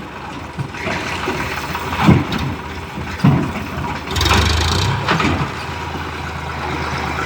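Sonalika DI 50 tractor's diesel engine running, with several heavy knocks and a louder low rumble about four seconds in.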